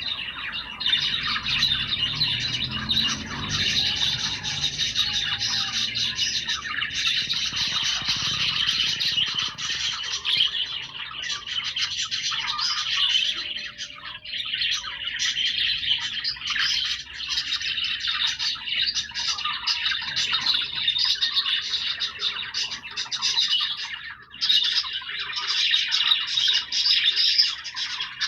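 A flock of budgerigars chattering and chirping continuously, many birds warbling over one another with squawks mixed in.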